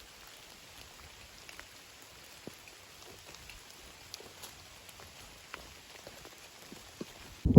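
Light drizzle falling steadily, with scattered single raindrops ticking. Right at the end a loud, low rumble of thunder starts suddenly.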